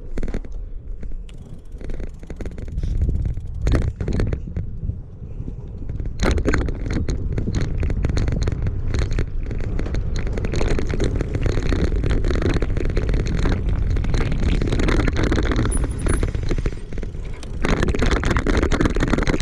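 Wind rushing over the microphone and the bicycle rattling as it is ridden downhill, growing louder about six seconds in as it picks up speed.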